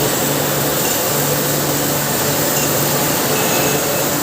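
Steady factory-floor noise from machinery in a MIG welding shop: a dense even hiss with a low steady hum underneath.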